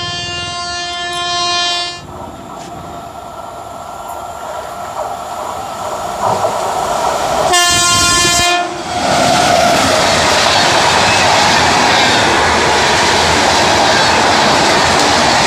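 An electric express train approaching at speed: its WAP7i locomotive sounds a horn for about a second, then the LHB coaches run past with a loud, steady rushing rattle of wheels on the rails. A steady pitched tone at the very start stops about two seconds in.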